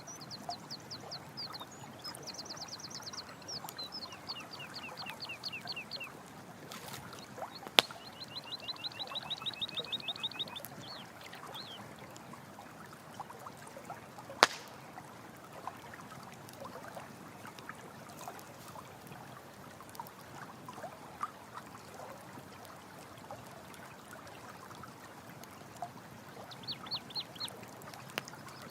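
Running water with a campfire crackling and giving a few sharp pops, the loudest about 8 and 14 seconds in. A rapid high trilling call repeats several times in the first half and once more near the end.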